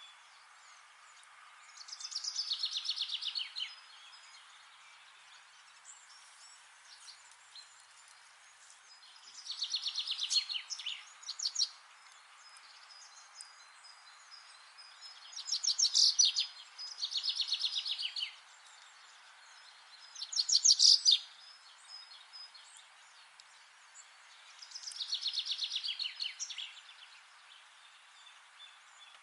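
A songbird singing repeated fast trills of rapid high notes, about six phrases a few seconds apart, over a faint steady outdoor hiss.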